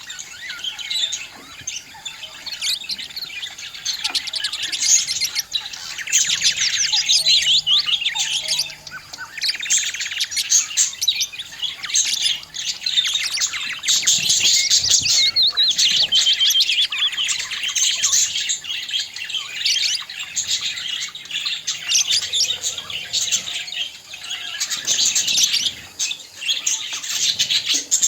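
Budgerigars chirping and warbling in a continuous chatter of rapid, high chirps.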